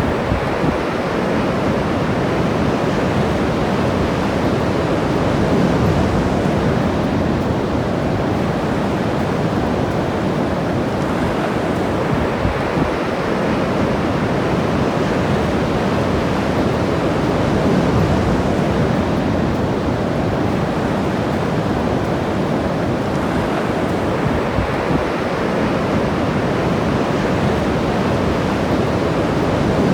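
Ocean surf washing onto the shore in a steady rush of noise, swelling a little as larger waves break about every twelve seconds.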